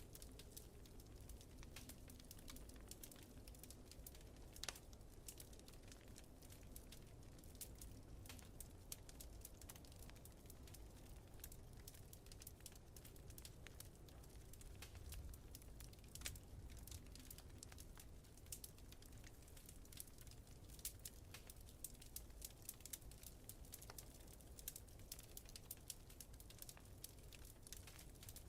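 Faint wood fire in a fireplace crackling, with frequent small sharp pops and a couple of louder snaps, over a steady low rumble.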